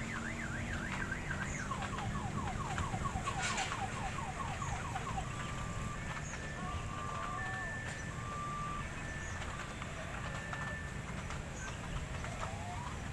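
Electronic siren-like sound effects: a fast warble, then a run of quick repeated pitch sweeps, then a few separate steady beeps. A steady low rumble sits underneath.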